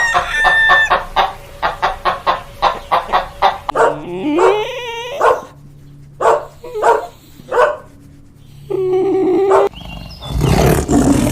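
Animal calls: a rapid run of short, sharp pitched calls for the first few seconds, then several separate, longer wavering calls with short pauses between them.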